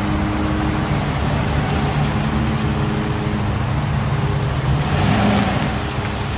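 2000 Ford F-250's 6.8-litre V10 engine idling steadily, with a brief swell in sound about five seconds in.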